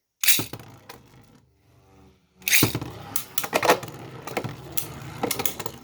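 Beyblade spinning tops clashing: a sudden start just after the beginning and a short lull, then from about two and a half seconds in, rapid repeated sharp plastic clacks as the tops hit each other.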